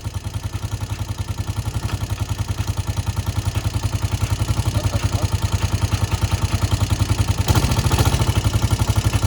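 ATV engine idling with an even, steady pulse, running cold. It slowly gets louder, with a brief louder, rougher stretch near the end.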